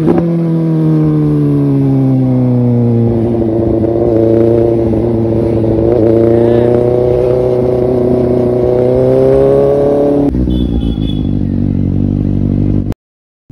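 Motor vehicle engine running under way: its pitch falls for a few seconds as it slows, then climbs gradually as it picks up speed again. About ten seconds in the sound changes to a steadier, lower hum, and the audio cuts out briefly just before the end.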